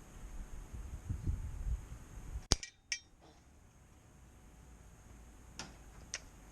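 Gamo air rifle fired once: a single sharp crack, followed just under half a second later by a second, fainter sharp click, with a few faint clicks near the end.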